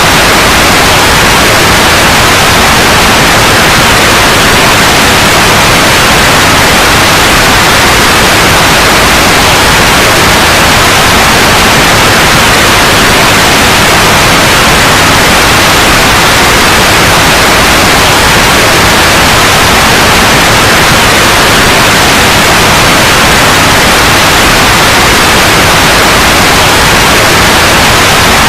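Loud, steady white noise: an even, unchanging hiss across the whole range.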